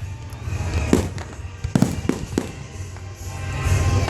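Aerial fireworks bursting: sharp bangs about a second in, twice near two seconds, and again near the end, over a steady low rumble.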